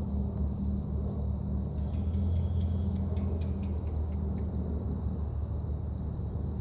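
Insects chirping in a steady, even rhythm, about two or three chirps a second, over a steady low rumble.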